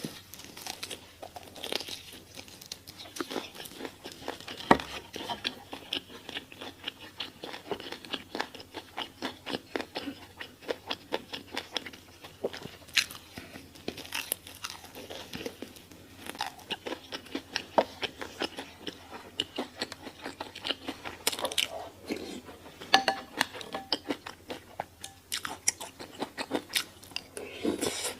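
Close-miked eating sounds: a steady run of crisp, crunchy bites and chewing, many small crunches a second, with a few louder crunches.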